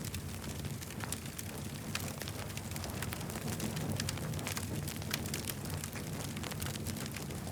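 Campfire crackling: frequent sharp snaps and pops over a steady low rumble.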